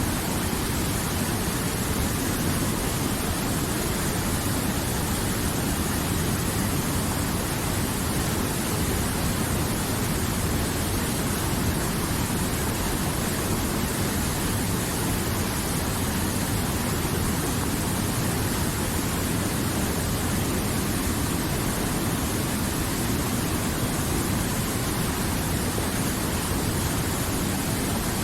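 River water flowing and rushing, a steady, even noise without breaks or changes.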